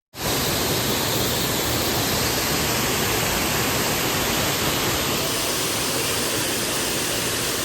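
Waterfall: a steady, loud rush of falling water that starts abruptly a fraction of a second in.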